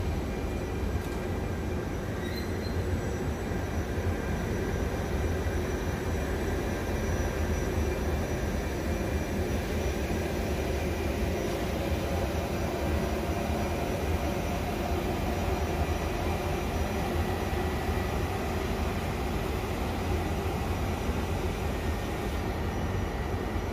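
A regional train of Vivalto double-deck coaches pushed by an E.464 electric locomotive rolls slowly past. It makes a steady low rumble of running gear, with faint steady high tones over it.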